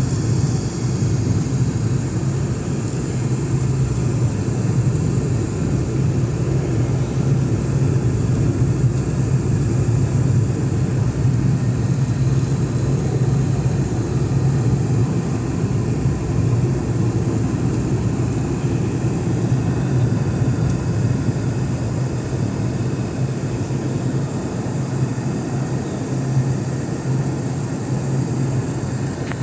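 Boeing 717 in flight, its two rear-mounted Rolls-Royce BR715 turbofans and the airflow making a steady low drone as heard from inside the cabin.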